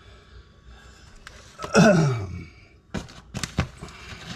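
A man's loud sigh, falling in pitch, about two seconds in, over faint scraping. Near the end come a few sharp clicks and crackles as the cut-out piece of thin sheetrock is worked loose from around the switch box.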